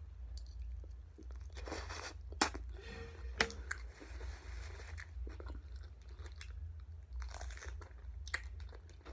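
Close-miked chewing with sharp, crunchy bites and wet mouth clicks, from eating rice, sausage and raw cucumber. A steady low hum runs underneath.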